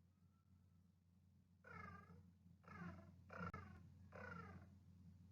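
Rock pigeon cooing softly, four faint coos in a row beginning a couple of seconds in.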